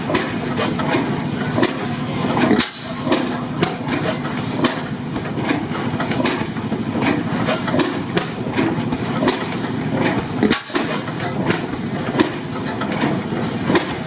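Antique stationary engines running, a steady mechanical rumble with irregular sharp clicks and knocks several times a second.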